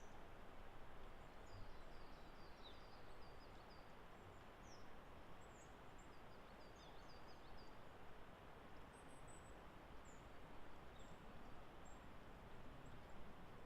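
Faint, distant small birds chirping over a steady hiss of woodland ambience: many short high notes, thinning out after about seven seconds.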